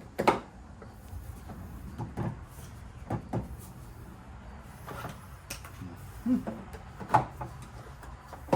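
Shelving unit parts being fitted together by hand: a string of irregular knocks and clacks, about six in all, the loudest just after the start and again about seven seconds in.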